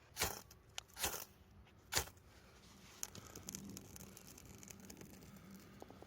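Ferrocerium rod (fire steel) struck three times with a scraper, three quick rasping scrapes about a second apart, throwing sparks onto shredded birch bark; faint crackling and ticking follow.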